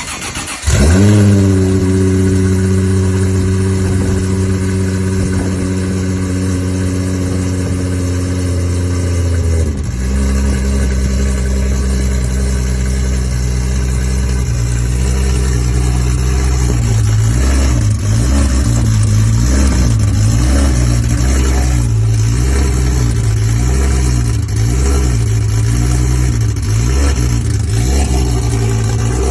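Toyota 2JZ inline-six engine swapped into a Lamborghini firing for its first start-up, catching about a second in and settling into a steady high idle. Near ten seconds it drops to a lower idle, and in the second half its pitch keeps rising and falling.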